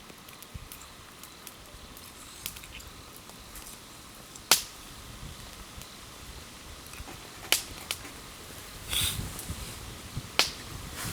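Wood campfire crackling: three sharp pops a few seconds apart, the first the loudest, with faint ticks between them and a short rustling burst near the end.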